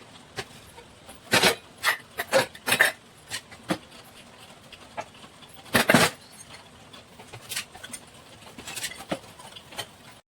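A series of irregular short knocks and clicks, clustered about a second in and loudest again around the middle.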